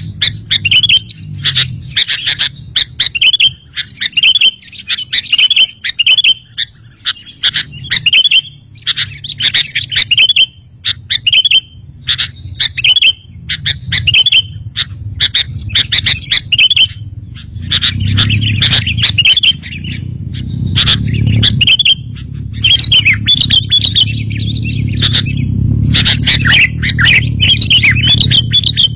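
Sooty-headed bulbul (kutilang) calling over and over in short, bubbly chirping phrases, a few each second, with brief pauses between bouts. A low background rumble rises under the calls from about halfway through.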